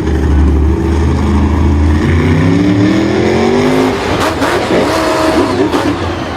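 Engine running at a low steady note, then revving up with a rising pitch about two seconds in, followed by a rougher stretch of engine noise with a few sharp streaks near the end.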